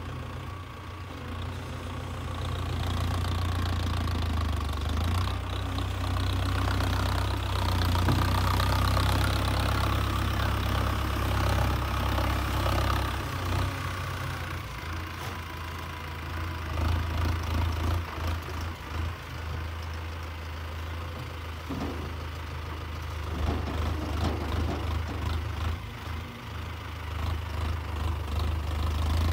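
Tractor diesel engine running throughout, with louder stretches where it swells and drops as it takes load.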